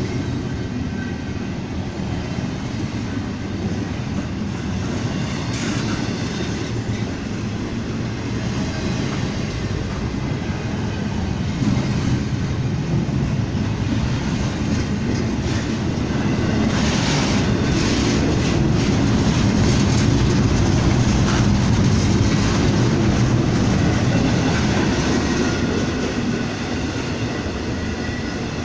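A train rolling past, its wheels clattering over the rail joints. The sound grows louder a little past halfway, then eases near the end.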